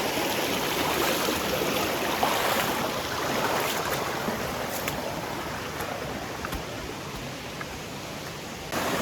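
Shallow stream running over rocks: a steady rush of water that eases slightly, then comes back louder just before the end.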